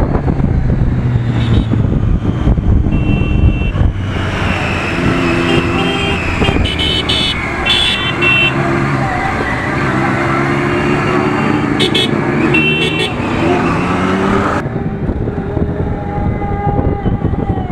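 Road traffic with engines running and vehicle horns honking several times, with wind on the microphone near the start.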